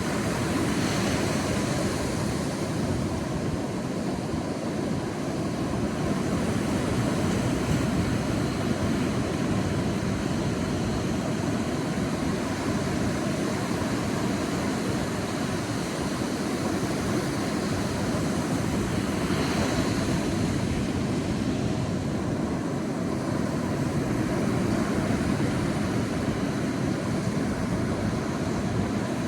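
Sea waves washing onto a beach in a steady low rush, with the hiss of a breaking wave swelling up about a second in and again about two-thirds of the way through.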